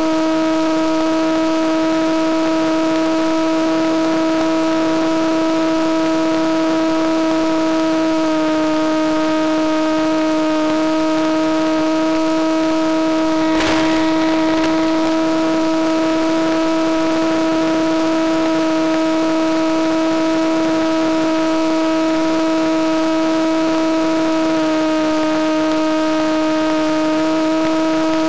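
Electric motor and propeller of a Penguin FPV model plane running steadily in flight, a constant whine over a hiss of rushing air. The pitch steps slightly lower about eight seconds in and again near the end, and there is a brief gust of noise about halfway.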